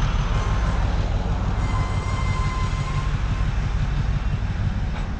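Freight train hopper cars rolling past on the rails, a steady rumble of wheels on track, with a faint high squeal through the first few seconds.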